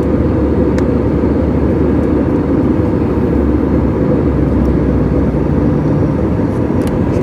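Steady roar of an airliner's jet engines and rushing air heard inside the passenger cabin, a low, even rumble that does not change.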